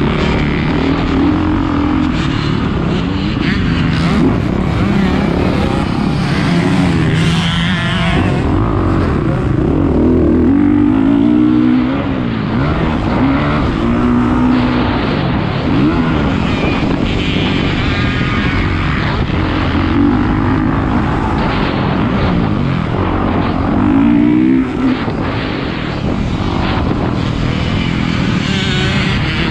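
450cc motocross bike engine revving hard, its pitch repeatedly climbing and dropping as the throttle is opened and closed and gears change.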